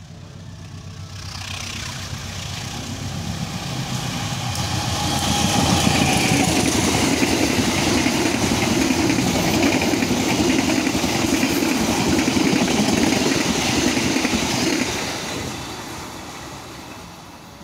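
Diesel-hauled long-distance passenger express train passing close at speed: the locomotive and wheels on the rails build up over several seconds, the carriages rush by at full loudness, and the noise dies away after about fifteen seconds as the train recedes.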